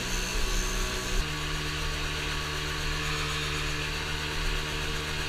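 Dirt bike engine idling steadily, its pitch stepping down slightly about a second in.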